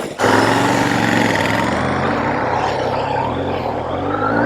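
Kawasaki Z900's inline-four engine running under way. Its pitch is fairly steady, then rises near the end as the bike accelerates.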